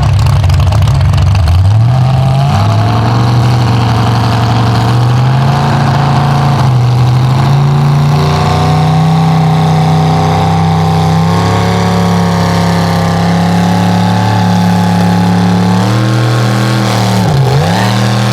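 Mega truck engine revving up and held at high revs under heavy load, as in a sled pull, climbing slowly for a long stretch. Near the end the revs drop sharply twice and pick up again.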